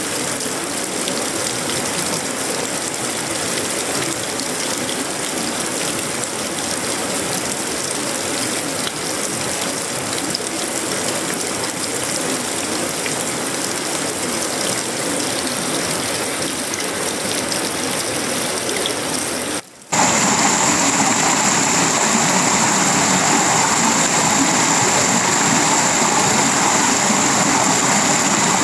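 Heavy tropical rain falling steadily on sheet-metal roofing, wood and leaves. A split-second drop about two-thirds of the way through is followed by louder rain with a steady high hiss over it.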